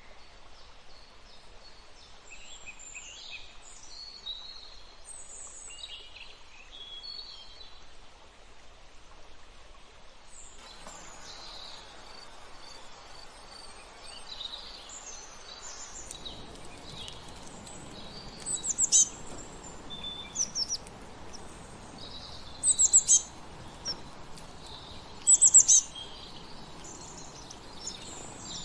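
Several wild birds calling and singing in short, high chirps and whistles. Three loud bouts of quick high notes stand out in the second half.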